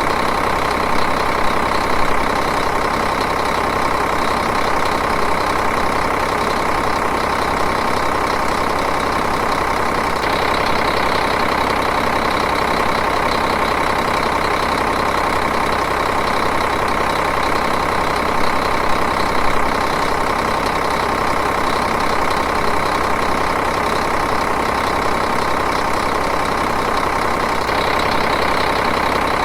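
Diesel engine idling steadily with an even, rhythmic clatter.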